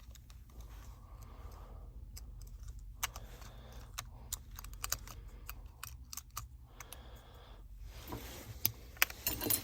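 Light clicks and taps of small phone parts being handled as a Samsung Galaxy S8+ logic board is fitted into its frame, the clicks coming thicker near the end, over a low steady hum.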